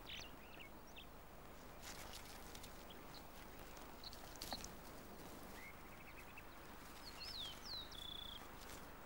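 Faint outdoor ambience with a few scattered bird chirps, a soft tap midway, and a short run of high falling whistled notes near the end.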